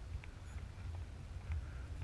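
Wind buffeting the microphone in an uneven low rumble, with a few faint light ticks of water.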